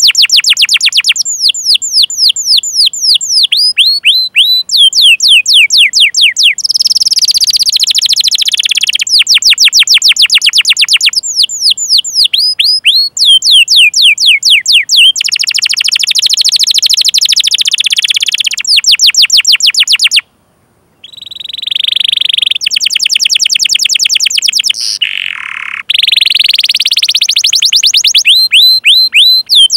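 Domestic canary singing: rapid runs of sharp downward-sweeping 'cuit cuit' chirps, many a second, alternating with denser rolling trills. There is a brief break about twenty seconds in.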